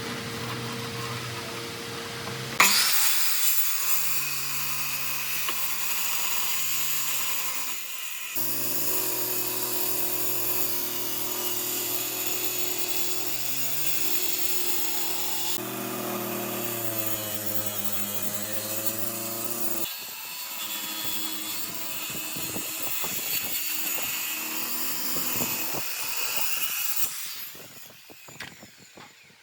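Electric power tools running and cutting wood in a run of short edited clips, a steady motor tone over a hiss whose pitch jumps at each cut. Near the end the motor stops and a few light knocks follow.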